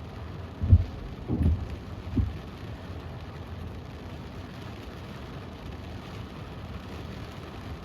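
Steady heavy rain falling on a car, an even hiss, with three dull low thumps in quick succession about a second in.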